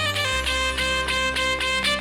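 Middle Eastern band music: an instrumental melody in quick stepped notes over a sustained low drone, played between the sung lines of an ataba.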